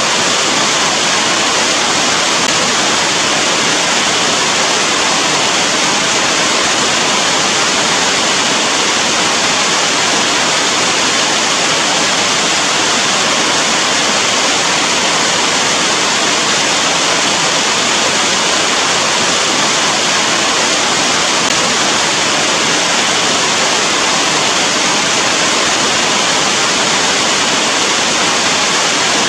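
Heavy rain falling, a dense, even hiss that holds steady without a break.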